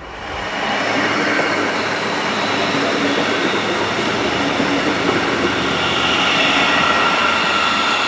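Electric multiple-unit commuter trains in the station: steady rolling and running noise with several high, steady whining tones that grow stronger in the second half. The sound swells over the first second and then holds.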